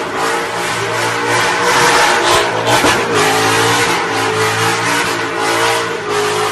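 A car engine held at high revs during a burnout, its pitch climbing a little partway through and holding, with a loud hiss over it throughout.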